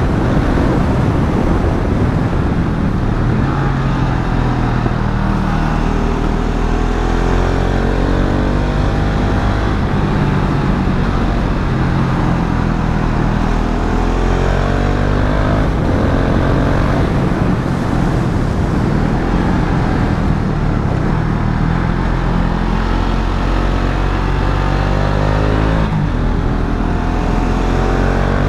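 KTM Duke 690's single-cylinder engine heard from on board while riding, accelerating several times with rising pitch and dropping back at each gear change or roll-off.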